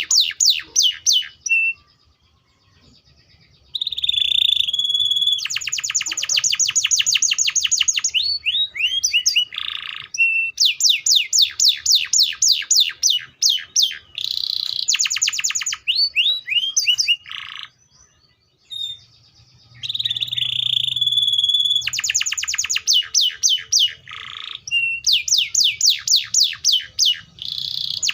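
Domestic canary (Serinus canaria) singing: bouts of very fast, high trills of repeated downward-sweeping notes, mixed with steadier whistled notes, with a couple of short pauses.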